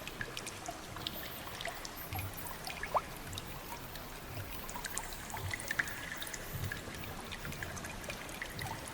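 Water trickling and dripping, with many small scattered drips. One drop lands with a short rising plink about three seconds in.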